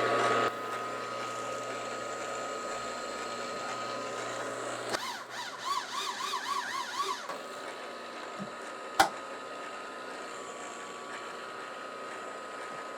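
A machine tool runs with a steady whine while squaring up a small 304 stainless steel block. About five seconds in, a warbling, wavering tone comes and goes for about two seconds, and a single sharp click sounds near the end.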